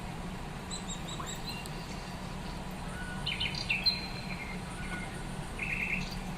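Birds chirping in short bursts of high notes over a steady low hum.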